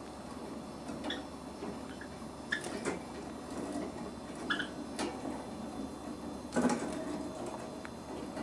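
Budgerigar chicks rustling and scratching in their nest, with a few short chirps and scattered clicks, the loudest a knock near the end.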